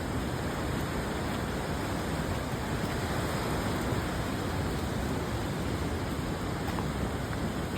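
Cheakamus River rushing, a steady, even hiss of flowing water.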